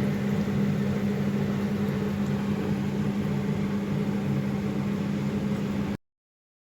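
Steady machine hum with a strong low drone, cutting off suddenly about six seconds in.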